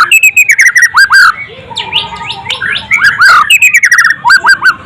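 White-rumped shama (murai batu) singing loud whistled phrases: runs of quick, down-slurred notes, with a short lull about a second and a half in before the song resumes.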